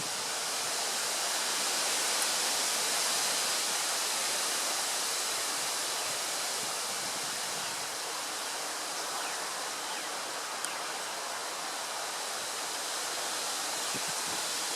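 Strong gusty wind rushing through tree foliage, a steady hiss of tossing leaves that swells over the first few seconds and then eases a little.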